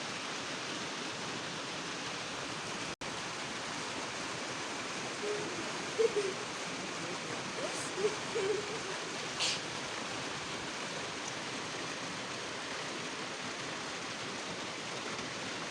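Hailstorm: hail and rain falling fast, a steady even hiss that drops out for an instant about three seconds in, with faint voices and a couple of sharp ticks in the middle.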